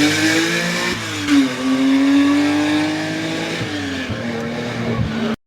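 Historic rally car's engine accelerating hard through the gears: the note climbs, drops at a gear change about a second in, climbs again for a couple of seconds, then falls away as the driver lifts off. The sound cuts out abruptly just before the end.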